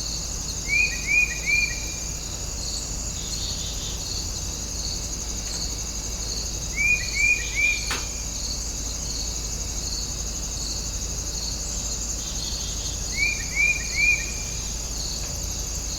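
Steady chorus of crickets and other insects, a high pulsing trill without pause. Over it a bird calls a quick three-note phrase three times, about six seconds apart, and there is one faint click near the middle.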